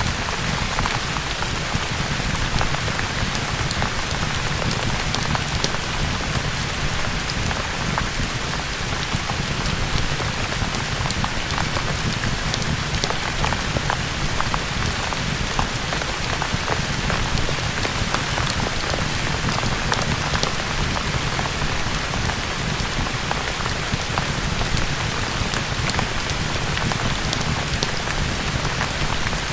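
Steady rain ambience: an even hiss with a low rumble underneath and scattered sharp ticks.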